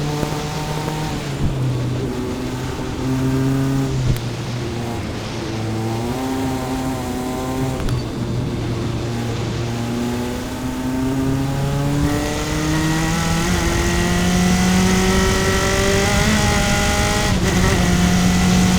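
Onboard sound of a single-seater race car's engine at racing speed, revving up and dropping back several times as it shifts through the gears, with a long climb in pitch over the last several seconds.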